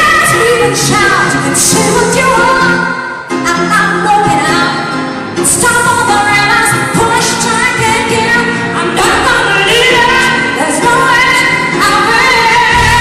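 Live pop ballad: a woman singing with band accompaniment.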